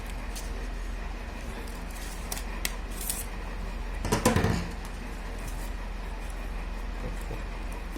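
Paper being handled and worked: scattered light clicks and rustles, with one louder brief rustle about four seconds in, over a steady low hum.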